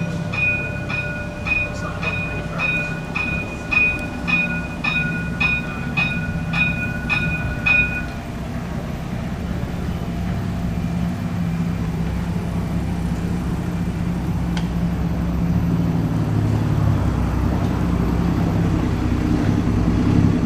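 A repeated electronic beep, a little under two a second, sounds for about eight seconds and then stops. Under it the Van Hool Exqui.City articulated bus's drivetrain drones steadily and grows louder near the end as it pulls away.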